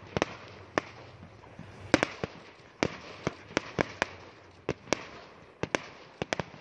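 Aerial fireworks bursting: a rapid, irregular string of sharp bangs, the loudest about two seconds in.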